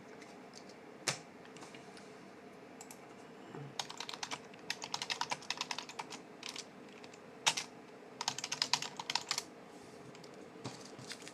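Typing on a computer keyboard: a single key press about a second in, then two runs of rapid key clicks with a lone press between them, over a faint steady hum.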